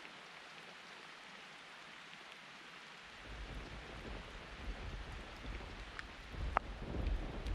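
Steady rain falling through a forest, an even hiss of drops. About three seconds in, a low rumble sets in and builds toward the end, and near the end there is one sharp tick of a drop striking close by.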